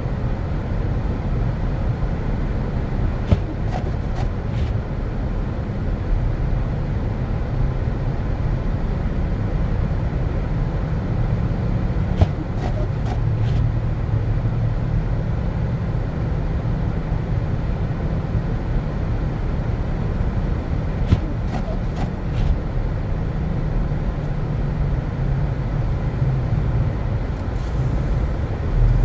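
Car driving on snowy streets: a steady low rumble of engine and tyres, with a few faint clicks in small groups now and then.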